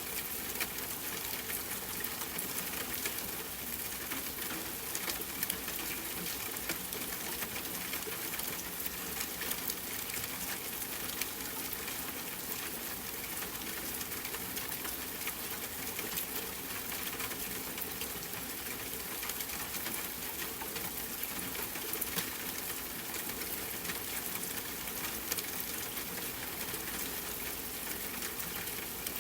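Steady rainfall as a continuous hiss, mixed with the irregular small pops and crackles of a wood fire in a fireplace.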